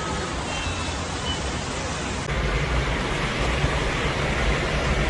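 Steady, even rush of floodwater, cutting about two seconds in to a louder stretch of the same kind of rushing noise.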